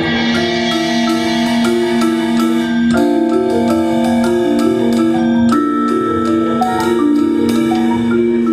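A percussion ensemble playing music led by mallet instruments, marimba and glockenspiel, with quick repeated notes over sustained chords. A bright crash rings out at the start and fades over a couple of seconds.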